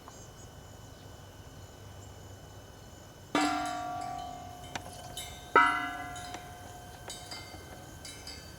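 Heavy steel tractor gears clanking against each other and ringing like bells: a loud strike a little past a third of the way in, another bigger one past halfway, and several lighter knocks at uneven gaps, each ringing on and fading.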